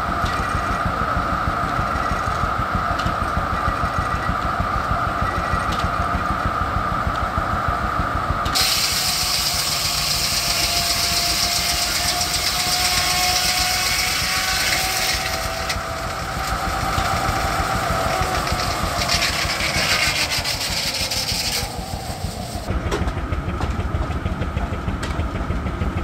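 Steam-engine-driven circular sawmill: the engine's rapid beat runs underneath, and from about eight seconds in the saw cuts through a log with a loud hissing rasp and a steady hum for about thirteen seconds, then drops back to running free.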